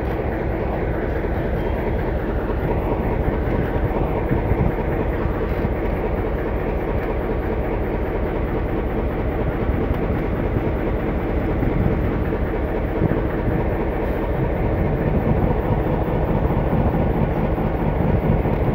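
Diesel-hauled passenger train moving past close by: the locomotive's engine going by near the start, then the passenger coaches' wheels rolling on the rails, a steady dense rumble throughout.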